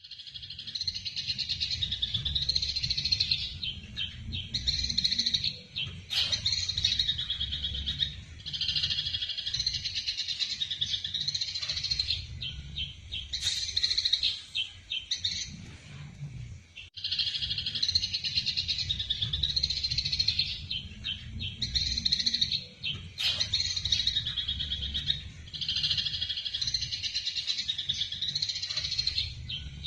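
Eurasian tree sparrows chirping in rapid, dense bouts of excited fighting calls, with a short break about halfway through. A steady low rumble runs underneath.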